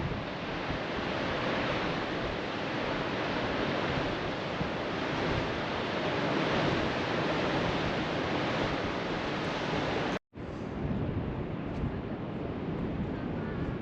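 Ocean surf breaking on a rocky shore, a steady wash of noise with wind buffeting the microphone. About ten seconds in the sound cuts out for a moment, then comes back duller.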